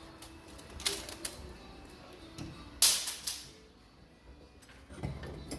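A few sharp knocks and clatters of parts or tools being handled while working on the engine, the loudest a cluster about three seconds in.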